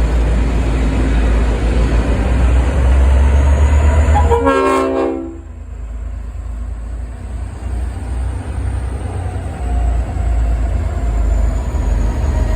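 Goods train rumbling past with one short horn blast, about a second long, a little before the middle. The rumble drops off after the horn and builds again near the end.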